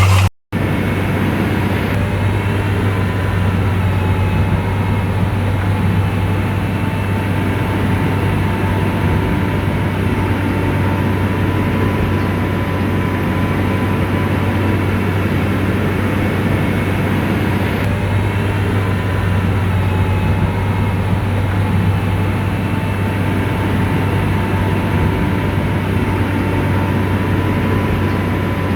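Diesel engine of heavy earthmoving machinery running steadily, with a deep hum and a faint steady whine above it. The sound drops out briefly about half a second in.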